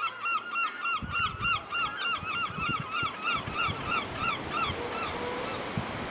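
A bird calling in a fast run of repeated, arching notes, about four a second, that tail off near the end. Wind buffets the microphone from about a second in.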